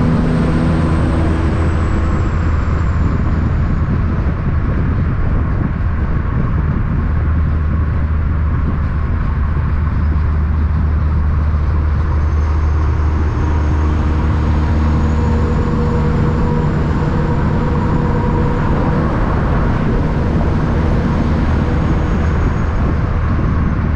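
Heavy diesel truck engine running with a steady, loud low drone; its tones shift a little in pitch about halfway through.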